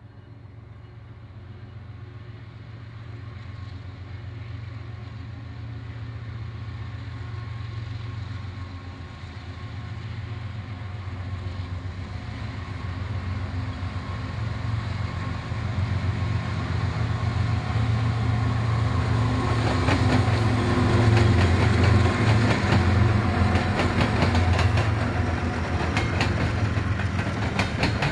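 A train approaching, its diesel locomotive's engine growing steadily louder. From about two-thirds of the way in, its wheels click rapidly over the track.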